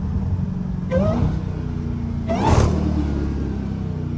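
Supercharged 6.2-litre Hemi V8 of a straight-piped Dodge Challenger Hellcat running under way, a steady deep exhaust drone, with a brief louder swell about two and a half seconds in.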